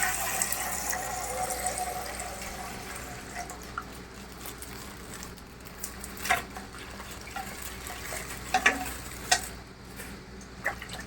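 Coloured water running and splashing out of a popped toy ice pack, fading out over the first few seconds. Afterwards come a few short, sharp clicks and crinkles of plastic being handled.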